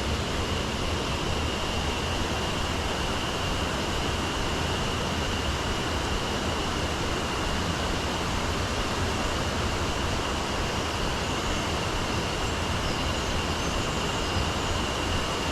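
Mountain stream water rushing over rocks, a steady even rush with a thin high tone held above it.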